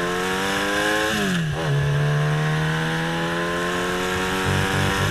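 Motorcycle engine pulling up through a gear with its pitch rising, then dropping sharply about a second in as the rider shifts up. It then runs on at a steadier pitch that creeps upward, with a steady rush of wind noise underneath.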